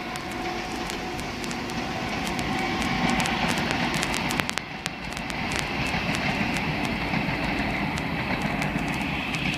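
Double-deck electric passenger train running over a railway bridge: a steady noise of wheels on rails, with a faint high whine and scattered sharp clicks.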